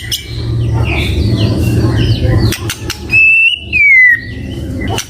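White-rumped shama singing: clear whistled phrases, the loudest a held note about three seconds in that slurs downward, with a quick run of high chirps. A low rumbling noise lies under the first half.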